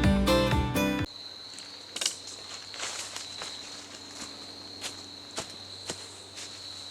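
Strummed acoustic guitar music cuts off about a second in. Then an insect's steady high-pitched call, like a cricket's, runs on, with irregular light clicks and crunches like footsteps.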